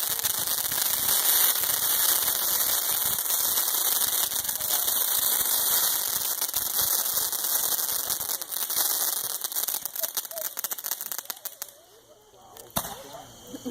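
Consumer firework going off with a dense, rapid crackle and hiss. It dies away about eleven seconds in, and one sharp pop follows near the end.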